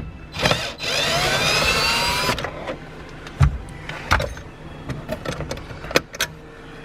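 Mechanical work noise from inside a car's dashboard: a whirring whine that rises in pitch and then holds for about a second and a half, followed by scattered clicks and knocks of tools and loosened dash parts.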